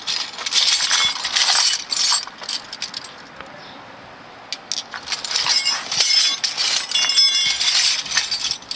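Metal wrenches clinking and rattling together as they are sorted through and tried for size, in two spells of jangling with short high rings, the second from about five seconds in.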